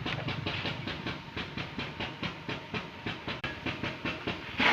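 Tractor engine running with a steady chuffing beat, about five pulses a second.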